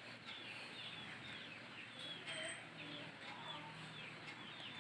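Faint chirping of small birds: short, high, downward chirps repeating about three times a second.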